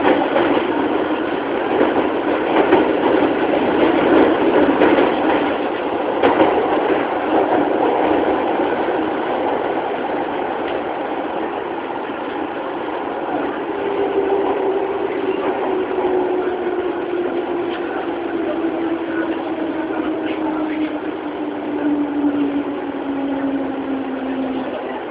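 Running noise of a 205-series electric train motor car, heard from inside the car: MT61 traction motors under field-addition excitation control, with wheels rumbling on the rails and occasional rail-joint clicks. About halfway through, a motor whine comes in and falls steadily in pitch as the train slows.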